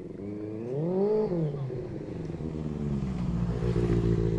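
Motorcycle engine revving up and back down about a second in, then running steadily.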